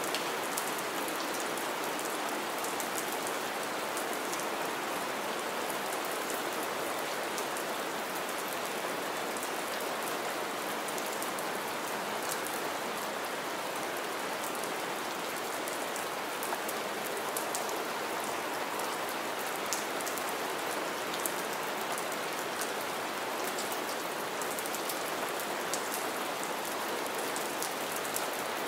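Steady rain falling on shallow standing water and wet leaf litter, an even hiss with many sharp individual drop splashes close by.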